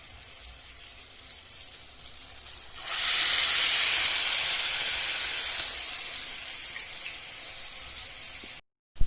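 Noodle pakoras frying in hot oil: a low sizzle, then about three seconds in a sudden loud burst of sizzling as a freshly shaped pakora goes into the oil, dying down slowly over several seconds. The sound cuts out abruptly just before the end.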